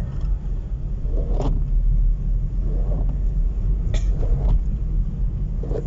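Steady low rumble of a moving road vehicle, with faint voices now and then.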